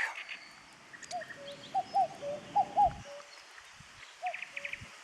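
Short animal calls: a quick series of brief, arched notes, some in pairs, between about one and three seconds in, and two more near the end, over faint outdoor background.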